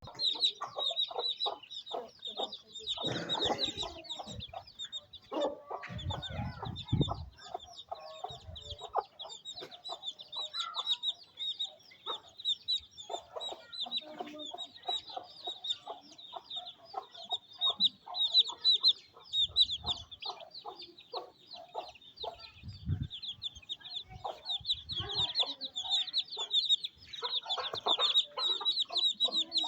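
A desi hen clucking in short repeated calls while her chicks peep continuously in a dense chorus of high, thin cheeps.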